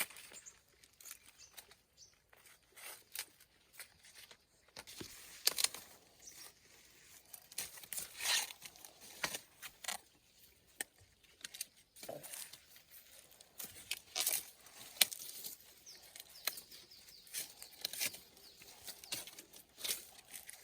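Irregular rustling, crackling and tearing of plant leaves or husks as crops are picked and handled by hand, in short scattered bursts.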